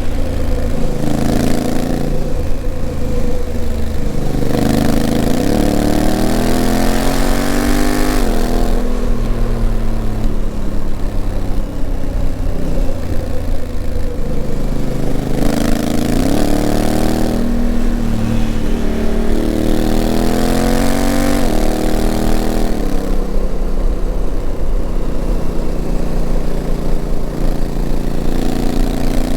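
Honda CRF1000L Africa Twin's 998 cc parallel-twin engine running under way, its note repeatedly climbing as the bike accelerates and then dropping back, several times over.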